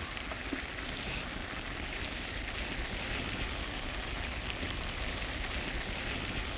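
Risotto simmering in a pan over a campfire: a steady bubbling, sizzling hiss with a few faint crackles.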